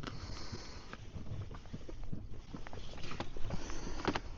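Knife cutting a fish fillet into bait strips on a boat: a run of small, irregular clicks and taps.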